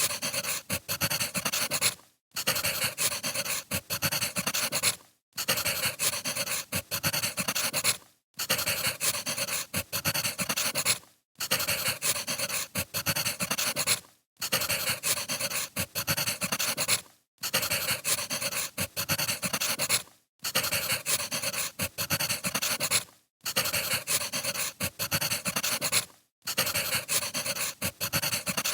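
Crackling wood fire: a dense run of pops and crackles over a soft hiss. It breaks off into a brief silence about every three seconds.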